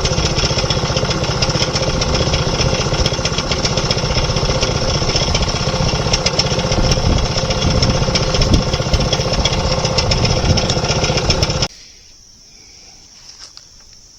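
Sawmill's engine running steadily at speed, driving the band blade with no log in it on a first test run, then shut off abruptly near the end. Crickets chirp steadily once it stops.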